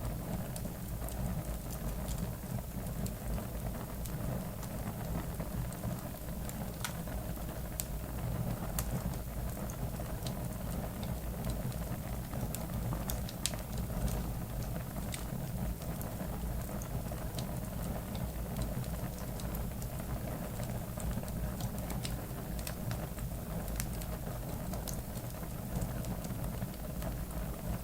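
Large campfire of garbage and logs burning, crackling with scattered sharp pops over a steady low rumble.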